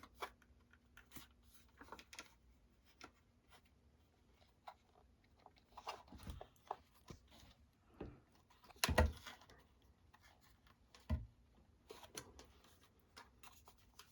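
Plastic packaging and a plastic miniature being handled: a series of light clicks and crackles, with a few louder knocks about six, nine and eleven seconds in.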